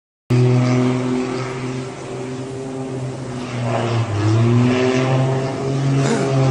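Propeller aircraft engine running, a steady drone whose pitch wavers a little up and down. It cuts in abruptly just after the start.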